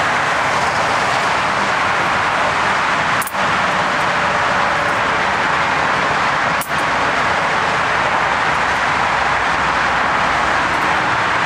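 Water spray hissing steadily against a vinyl awning as it is rinsed, cut off briefly twice.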